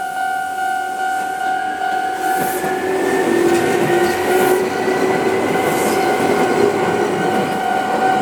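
Chichibu Railway 7500-series electric train pulling away from the station. Its traction motors give a whine that rises in pitch as it picks up speed, over a growing rumble of wheels on rail. A steady high ringing tone sounds throughout.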